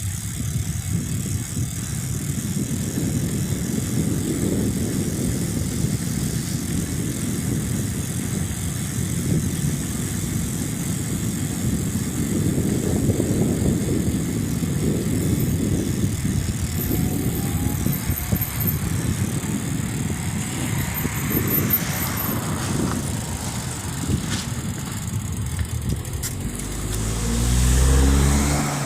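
Wind and road rumble on a bicycle-mounted or handheld microphone while riding, a fluctuating low noise. Near the end a motor vehicle passes close, its engine note rising to the loudest moment.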